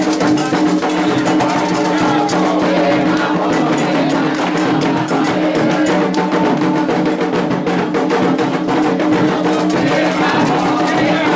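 Candomblé ritual music: drums and percussion played in a fast, steady rhythm, with singing voices.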